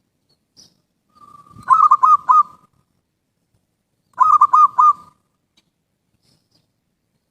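Zebra dove (perkutut) cooing: two phrases about two and a half seconds apart, each a short lead-in note followed by three quick, looping notes.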